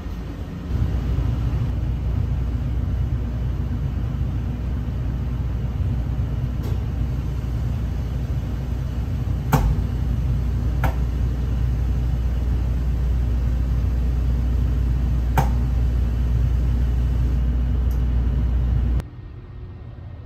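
Steady low rumble of a 285-series electric sleeper train running, heard from inside the carriage. A few sharp clicks cut through it, and the rumble stops abruptly near the end.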